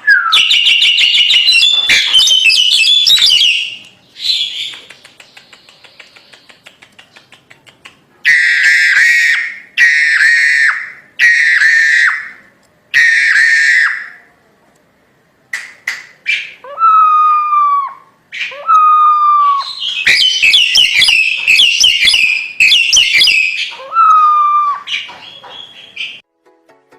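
Crested myna singing loudly: runs of harsh, squeaky chattering alternate with whistled calls. Four strong calls come about a second and a half apart, and several short falling whistles follow.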